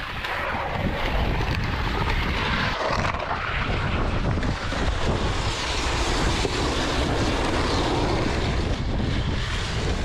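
Wind buffeting the microphone: a low, steady rumble under an even hiss.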